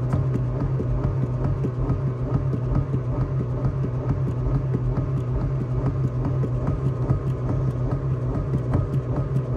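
Honda car engine running steadily at an even, unchanging pitch, not being revved, heard inside the cabin by the pedals.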